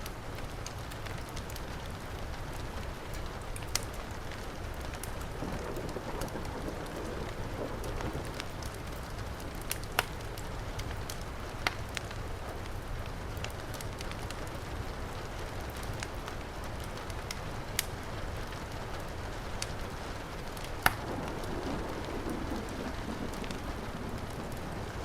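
Steady heavy rain hissing, mixed with a wood fire in a fireplace crackling; a handful of sharp single pops stand out. Twice a low swell rises and fades.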